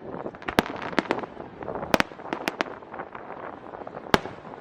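Aerial fireworks bursting: a rapid string of sharp bangs with crackling between them, about eight clear reports in all, the last one sharp and loud near the end.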